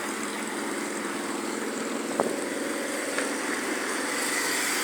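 Road traffic going by: a steady wash of engine and tyre noise from passing vehicles, growing slightly louder near the end, with one short click about two seconds in.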